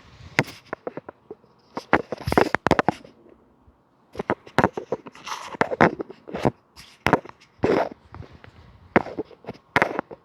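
A string of sharp, uneven clicks and knocks, some coming in quick clusters, with brief quiet gaps between them.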